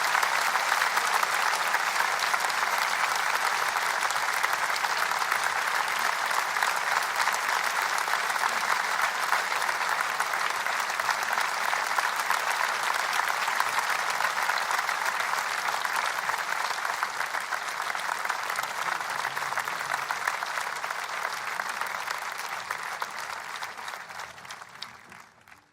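Large audience applauding steadily, a dense sustained ovation that fades out near the end.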